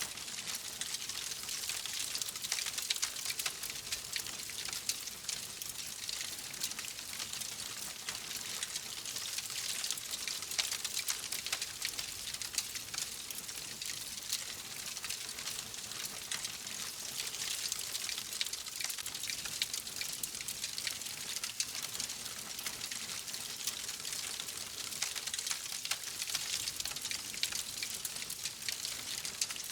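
Wood fire crackling: a steady hiss dotted with many small, sharp pops and snaps.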